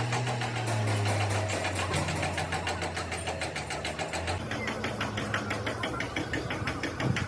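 An engine running steadily with a rapid, even ticking; a low hum is strong at first and fades about four seconds in, while the ticking carries on.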